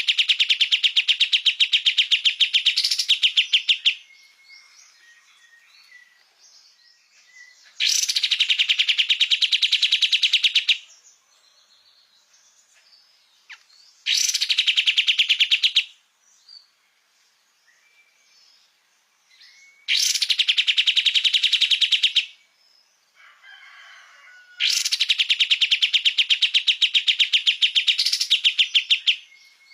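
Kapas tembak songbird singing its rapid-fire rattling trill: five bouts of fast, evenly pulsed notes, each lasting two to four seconds, with short pauses holding faint softer calls between them.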